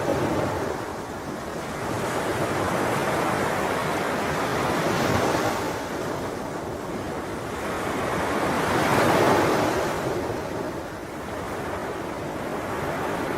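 Sea waves washing in and out on a shore. The surf swells about five seconds in and more strongly about nine seconds in, then ebbs.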